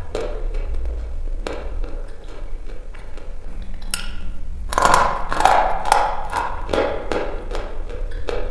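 Close-up crunching of dry red chalk being bitten and chewed: scattered crisp clicks at first, a sharp snap about four seconds in, then a dense run of louder crunches.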